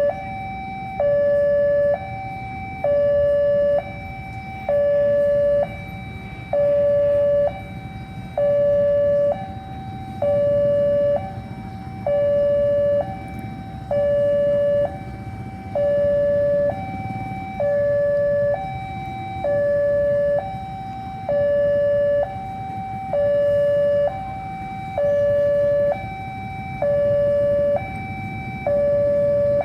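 Railway level-crossing warning alarm sounding a two-tone electronic signal. It alternates high and low notes, about one high-low cycle every two seconds, steady and unchanged throughout, over a low rumble of engines. The alarm signals that a train is approaching the crossing.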